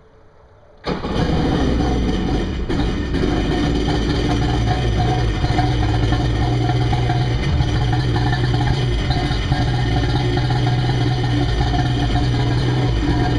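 2001 Kawasaki STX 900 jet ski's 900cc two-stroke triple engine starting from cold: it catches suddenly about a second in and then runs at a steady idle.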